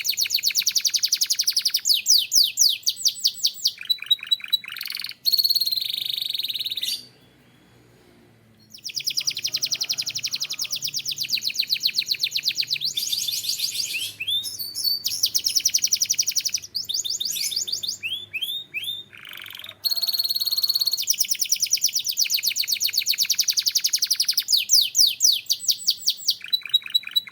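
Canary singing: long phrases of fast repeated trills and rolls, some notes sliding up or down, with a pause of about two seconds early on before the song picks up again.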